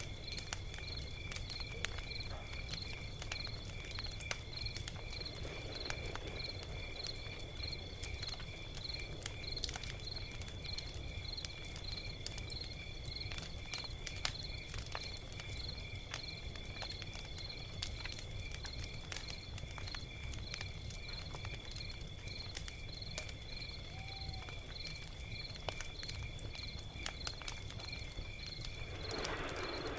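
Log fire crackling with scattered sharp pops over a low steady rumble. Crickets chirp in an even, pulsing rhythm throughout, and a brief burst of louder crackling comes near the end.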